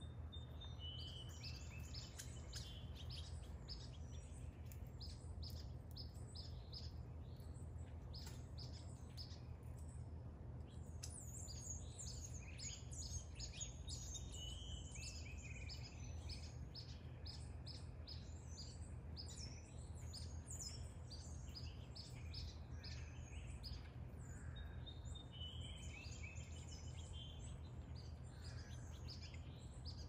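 Songbirds chirping and calling in quick, repeated short notes throughout, over a steady low background hum.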